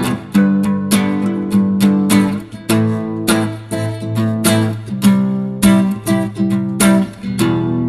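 Acoustic guitar strumming chords in a steady rhythm, an instrumental with no singing.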